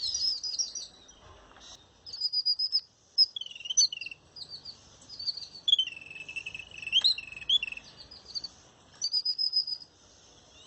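A flock of small birds chirping and calling as they gather at food: short, high, repeated notes in quick phrases, with brief pauses between them.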